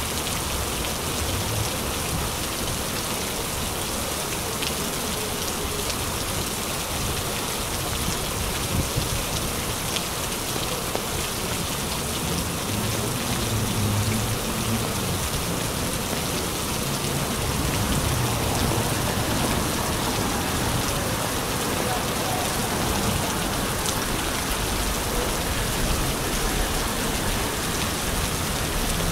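Steady rain falling on a city street and sidewalk, an even hiss dotted with scattered close raindrop taps.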